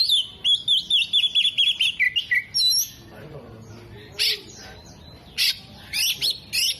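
Caged oriental magpie-robin (kacer) singing vigorously, a song mixing in imitations of other birds' calls: a fast run of repeated chirping notes for the first couple of seconds, then scattered sharp whistles and squawky calls.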